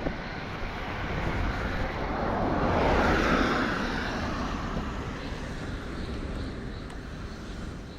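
A vehicle passing by: a rushing noise that swells to a peak about three seconds in and then fades.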